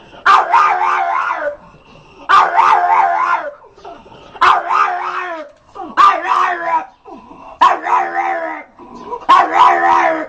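A dog making a series of six long, wavering howl-like barks, roughly one every one and a half seconds.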